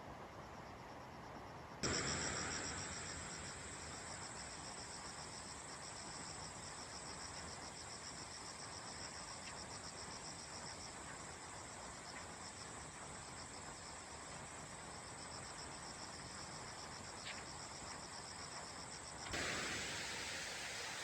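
Insects trilling in a fast, even pulse over a faint hiss. The trill cuts in abruptly about two seconds in and gives way to a louder steady hiss near the end.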